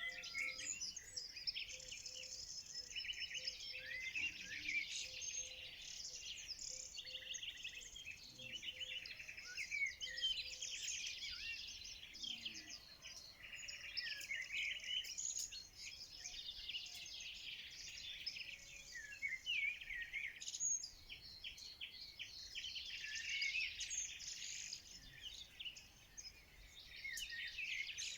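Several songbirds singing at once: a dense, continuous chorus of overlapping fast trills, chirps and short sweeping whistled notes.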